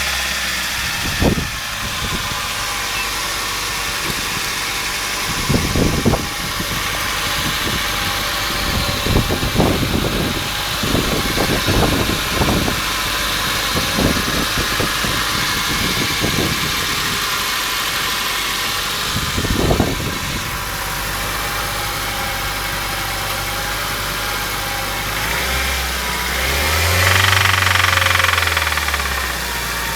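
Honda Fit's L13A 1.3-litre four-cylinder engine idling with an engine knock, with irregular sharp knocks standing out in the middle. Revved up once and back down near the end.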